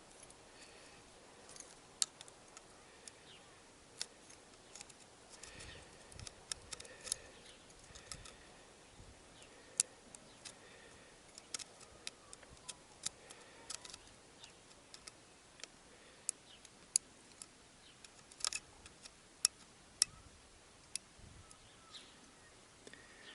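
Scattered light clicks and taps of small parts being handled as the carbon brushes of a heater blower motor are fitted back into their holders.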